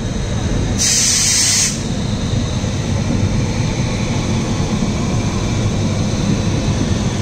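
Passenger train running, heard from aboard: a steady low rumble of the coaches on the track. Just under a second in comes a loud hiss lasting about a second.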